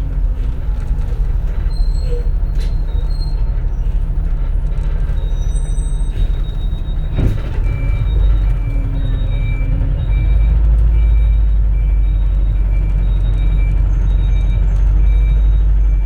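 Cabin sound of a 2004 CNG-powered city bus under way: a steady low rumble of engine and road that grows louder about ten seconds in. A sharp burst comes about seven seconds in, and from about five seconds in there is a quick repeated two-tone electronic beeping.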